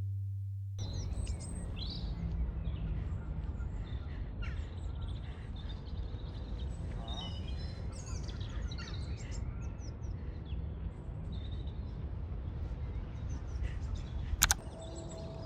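Birds chirping and calling over a steady low outdoor rumble. About fourteen seconds in there is a single sharp click, followed by a faint steady tone.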